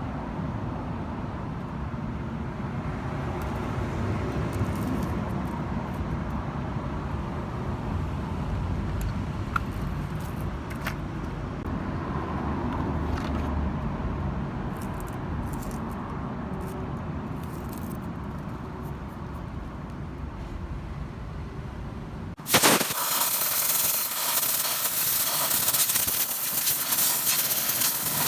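A car engine running with a steady low rumble and occasional light clicks. About 22 seconds in it gives way abruptly to a loud, steady hiss.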